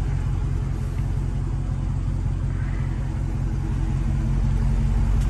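V8 engine of a Dodge Charger Scat Pack, the 6.4-litre 392 Hemi, idling steadily with an even low rumble.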